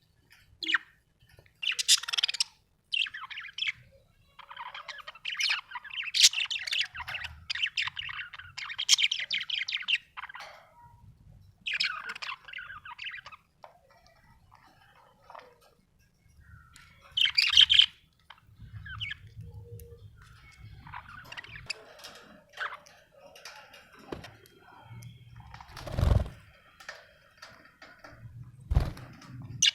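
Budgerigar chirping and warbling in bursts with short pauses, including a longer run of fast chatter in the first third and several loud, sharp chirps. A single low bump a few seconds before the end.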